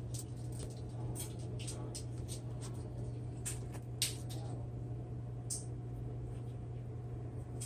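Scattered soft clicks and rustles from handling and biting into a keto dinner roll, over a steady low hum.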